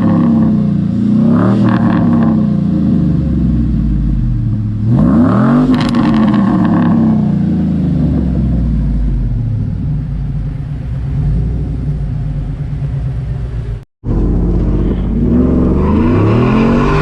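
Chevy 5.3L V8 exhaust, through longtube headers and a Borla XR-1 muffler, blipped in quick revs, then a bigger rev about five seconds in that falls back to a deep, steady idle. The sound cuts out for a moment near the end and picks up revving again.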